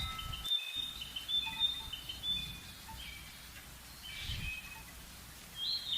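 Small birds chirping and calling, a string of short high whistled notes, over a faint low outdoor rumble.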